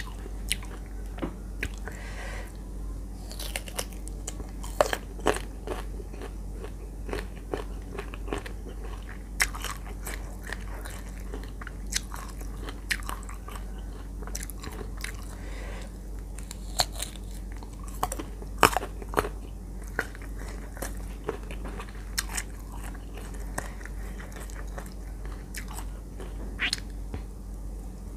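Close-miked crunching and chewing of unripe green mango slices coated in chili-salt dip: sharp, irregular crunches from each bite and chew, over a steady low hum.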